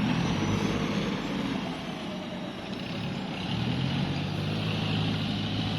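Dump truck's diesel engine running as the truck drives up, the engine note easing off midway and then rising again.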